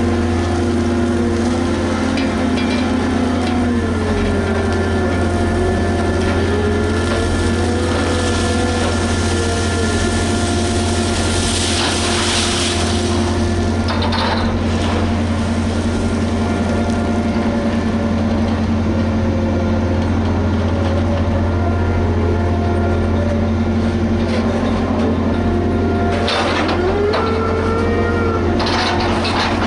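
Liebherr HS 8200 dragline excavator working: its engine runs with a steady deep hum, while machinery tones rise and fall in pitch as it works. There are a few louder noisy bursts, about 12 seconds in and again near the end.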